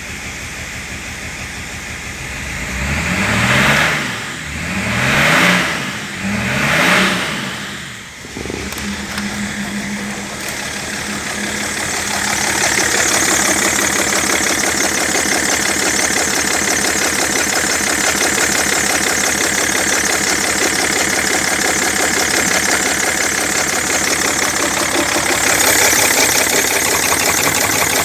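BMW M57D30 3.0-litre straight-six turbodiesel idling, revved three times in quick succession a few seconds in, each rev rising and falling back, then running at a steady idle.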